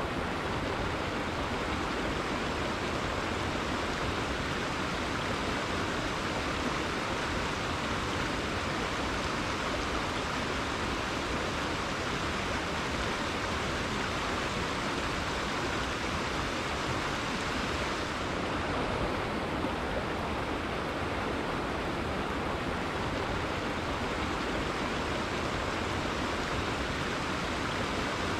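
A river's water flowing in a steady, unbroken rush.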